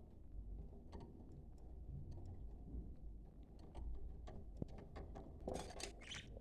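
Budgerigars, faint: scattered light ticks and clicks, then a short scratchy burst of budgie chatter near the end.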